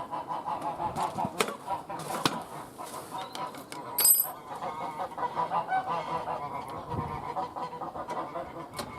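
Domestic geese honking repeatedly. A brief sharp high-pitched sound about four seconds in, the loudest moment, and a few light clicks.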